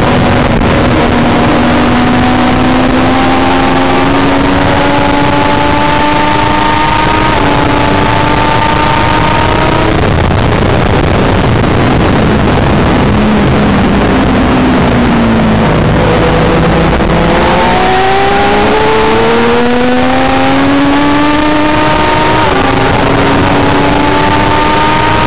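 Triumph Daytona 675 three-cylinder sport bike engine at full throttle, heard on board over loud wind rush. The pitch climbs as it revs through the gears, drops about halfway through as the bike slows for a corner, then rises again hard on the throttle.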